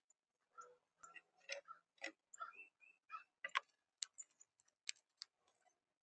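Faint, irregular clicks and taps, a bird pecking and cracking seed on a feeder.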